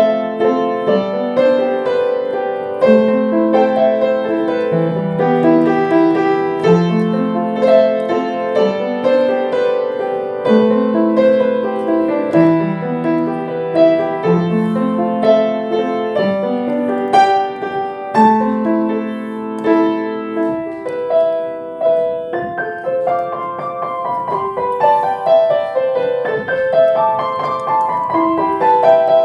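Solo piano music, a slow melody over a steady rolling bass; about two thirds of the way through the bass drops out and only the higher notes carry on.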